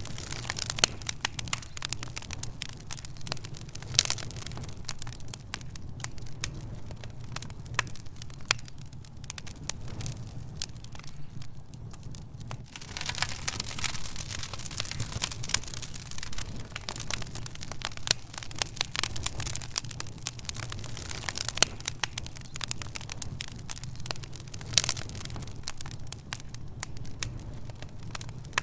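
Wood fire burning in a fireplace, crackling and popping irregularly, with sharper pops now and then and a denser run of crackles from about halfway through, over a steady low rumble.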